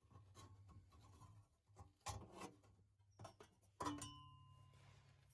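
Faint knocks and clinks of metal parts being handled, with one louder metallic clink almost four seconds in that rings on briefly.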